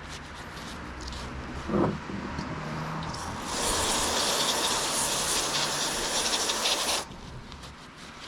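Aerosol parts cleaner spraying in one steady hiss of about three and a half seconds that cuts off sharply near the end, after a brief clunk a couple of seconds earlier.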